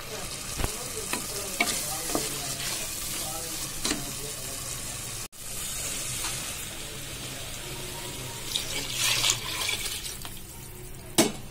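Vegetable masala sizzling and frying in a pressure cooker while a wooden spatula stirs and scrapes through it. About five seconds in the sound cuts, and later water is poured into the pot with a brief rushing splash.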